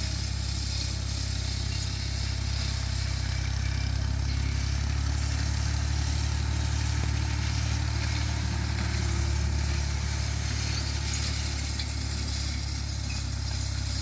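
Tractor engine running steadily under load, a constant low hum with no change in speed.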